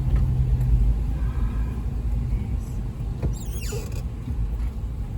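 Car driving, heard from inside the cabin: a steady low rumble of road and engine noise, with a brief high squeak falling in pitch a little over three seconds in.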